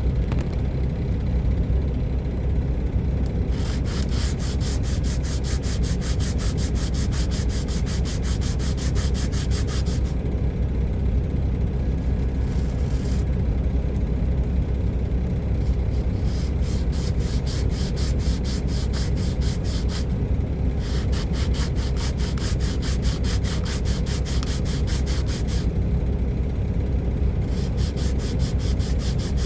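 Hand sanding of a model locomotive body with a small sanding pad: quick back-and-forth scratchy strokes in several spells with short pauses between, over a steady low rumble.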